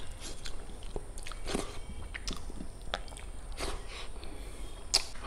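Close mouth sounds of a person eating rice and chicken in gravy by hand: chewing with wet smacks and clicks, and one sharper click near the end.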